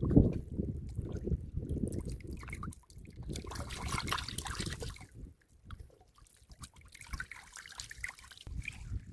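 Shallow muddy water sloshing and trickling as someone works through it, with a brighter burst of splashing about three to five seconds in, then scattered small drips and splashes.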